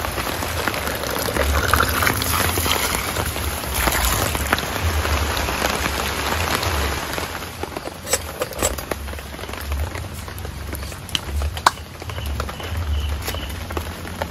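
Heavy rain falling, a dense steady hiss for the first half that thins after about eight seconds into scattered, distinct drop hits.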